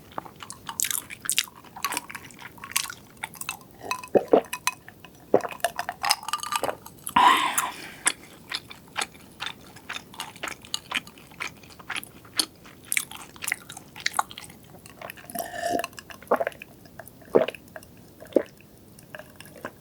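Close-miked chewing and biting of food, with many short crackling mouth clicks and one longer, louder sound about seven seconds in.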